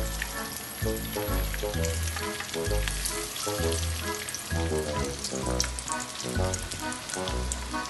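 Tuna fritters frying in shallow oil in a pan, sizzling with scattered pops, under background music with a steady beat.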